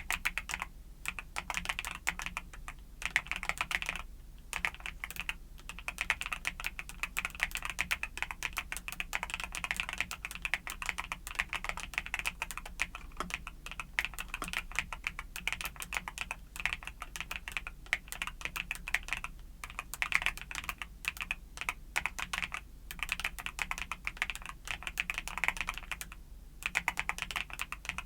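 Fast, continuous typing on a mechanical keyboard with YUNZII Cocoa Cream switches, the keystrokes clicking in quick runs broken by a few short pauses.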